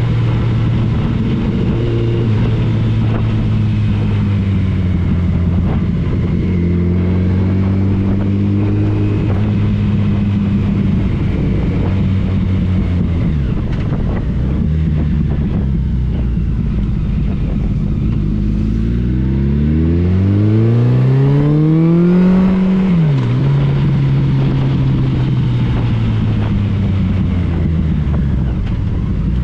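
Motorcycle engine running at a steady speed, then revving up over about four seconds and dropping sharply back to a steady lower note.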